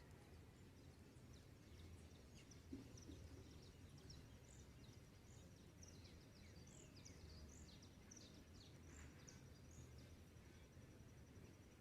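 Faint dawn bird chorus: many small birds giving short high chirps, with a thin steady high trill running through the middle, over a low steady background rumble.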